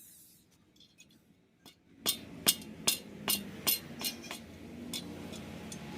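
A series of sharp metallic taps on a motorcycle exhaust pipe, about eight in a row at two to three a second, starting about two seconds in and growing fainter toward the end.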